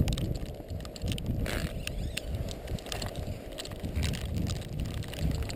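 Wind buffeting the microphone in uneven low gusts during a snowstorm, with scattered faint crackles and a low thump at the start.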